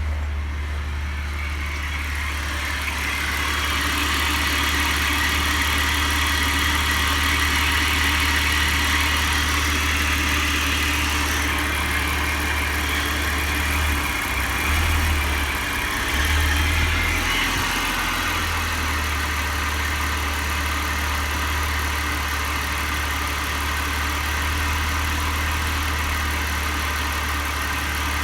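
BMW M52TUB25 2.5-litre straight-six engine idling steadily, briefly louder a little past halfway.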